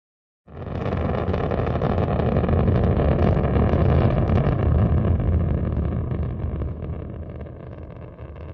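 Deep, loud roar of rocket engines, a steady rumble that starts suddenly about half a second in and slowly fades from about six seconds on.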